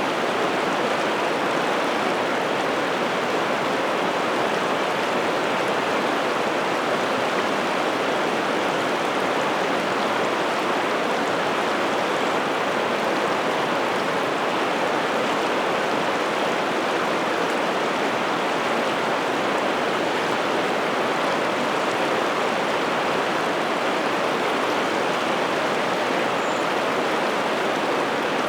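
Steady rushing of a large river's flowing water.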